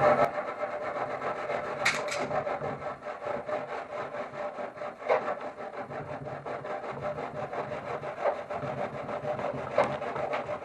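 Japanese hand saw cutting through wood with steady, quick back-and-forth strokes.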